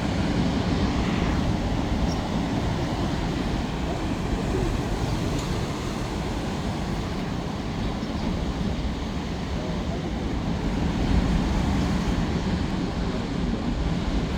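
Steady low rumble of sea surf with wind on the microphone.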